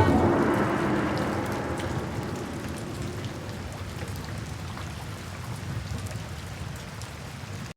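Steady rain falling, slowly fading down and then cutting off abruptly near the end. The last ringing notes of the background music die away in the first second.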